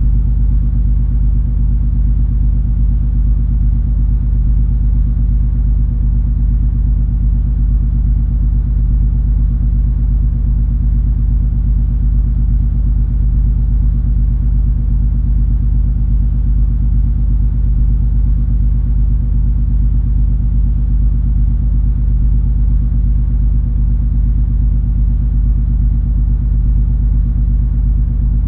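Steady low rumble of the MS Color Fantasy cruise ferry under way: engine drone with several even hum tones and no changes.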